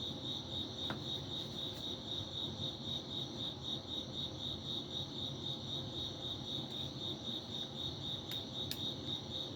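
An insect, most like a cricket, chirping steadily in one high tone of evenly repeated pulses, about five a second.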